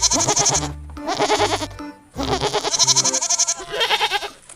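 Several bleats in quick succession, each one tremulous, with short pauses between them.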